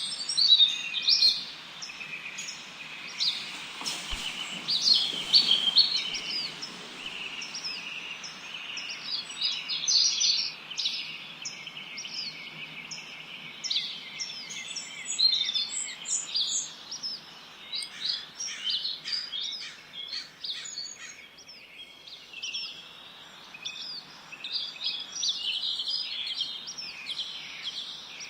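Many small songbirds chirping and singing together: a dense chorus of overlapping short, high chirps and trills over a steady background hiss.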